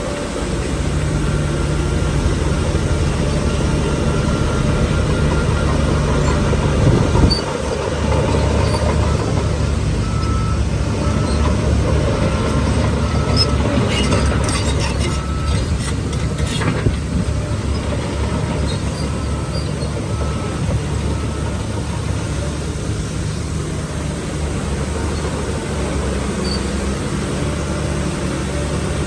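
Heavy diesel engine of earthmoving machinery running steadily under load with a deep drone. A faint, evenly repeated beeping runs through the first half, and a burst of rattling and clanking comes about halfway through.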